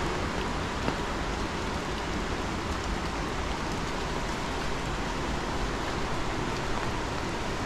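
Steady rushing of water, an even hiss with a few faint ticks through it.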